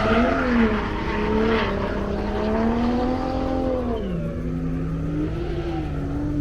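Drift car's engine revving up and down under throttle, with tires squealing in the first couple of seconds; about four seconds in the engine note drops sharply, as on a lift or gear change, and carries on at a lower, steady pitch.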